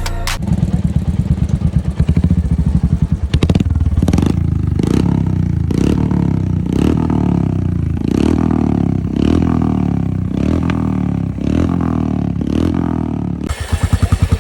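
Royal Enfield Hunter 350's single-cylinder engine, breathing through a Globe DND aftermarket exhaust with a dB killer fitted. It idles with a steady, fast exhaust thump, then from about four seconds in is blipped on the throttle about once a second.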